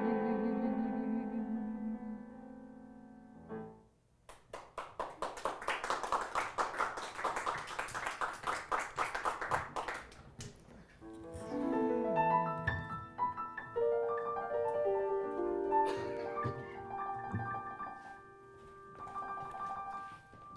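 A woman's held sung final note, with vibrato, fades out over the keyboard. After a short pause comes a run of rapid, even repeated strokes for several seconds, then a stage keyboard in piano voice playing slow single notes and chords.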